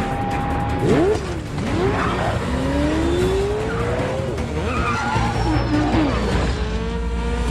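Film chase soundtrack: vehicle engines running hard under a steady low rumble, with several sharp rising and falling squeals of tyres and engine revs about a second in and again around the middle.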